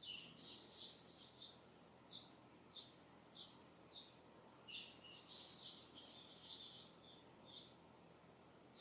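Faint, distant small birds chirping in short high notes, with a quicker, denser twittering run about five seconds in, over a soft steady hiss of breeze.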